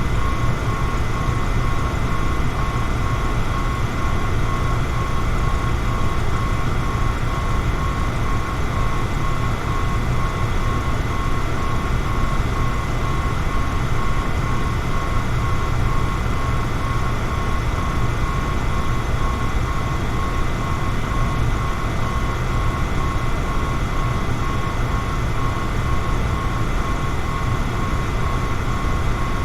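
Electric fan running steadily: a constant rush of air with a low hum underneath and a faint, thin steady whine above it.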